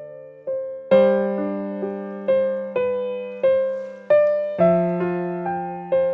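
Slow, gentle piano music: melody notes struck about twice a second, each ringing and fading, over held low chords that change about a second in and again past the middle.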